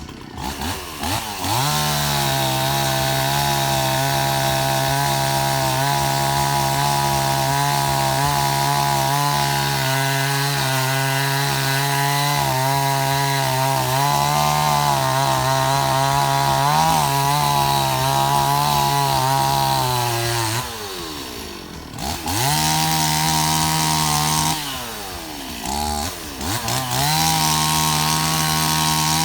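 Two-stroke chainsaw held at full throttle in a long steady cut. It drops to idle about 20 seconds in, then is revved up twice more in shorter bursts.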